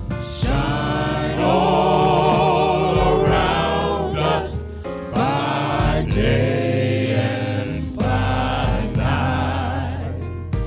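Gospel worship music: voices singing long, wavering held notes in phrases over a steady low bass.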